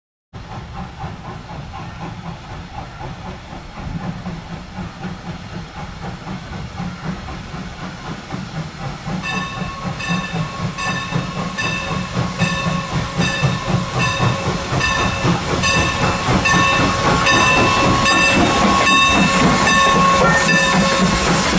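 Steam locomotive working toward the microphone, its exhaust chuffing and steam hissing, growing steadily louder. From about halfway a ringing tone repeats about once a second, which fits the locomotive's bell.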